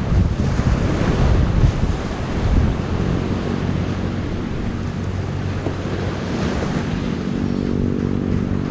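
Wind buffeting the microphone over sea waves, a loud rushing noise heavy in the low end. A steady low hum comes in more clearly about seven seconds in.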